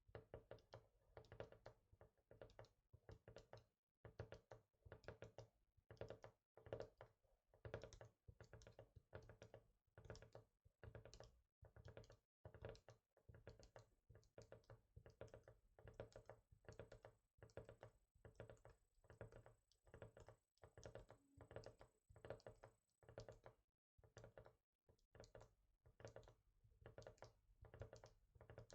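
Fingers tapping softly and quickly on a hard surface, in runs of several taps a second broken by a few brief pauses.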